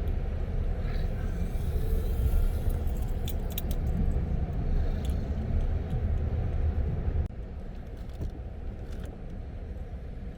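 Car driving, heard as a steady low road and engine rumble that drops off abruptly about seven seconds in, with a few light jingling clicks a few seconds in.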